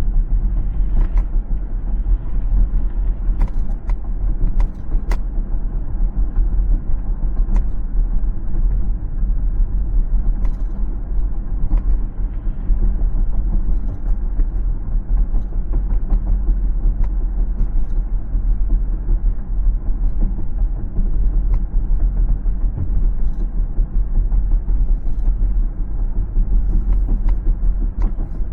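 A car driving along a road: steady low rumble of road and tyre noise, with scattered light ticks and creaks.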